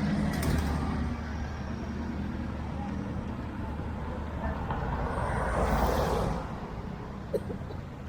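Road traffic: motor vehicles running by with a steady low engine hum, one passing close and swelling in loudness about five to six seconds in, and a brief click near the end.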